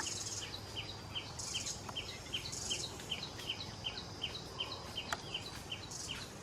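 Forest ambience: a bird chirping over and over in short falling notes, about three a second, with insects buzzing in short bursts and a single sharp click about five seconds in.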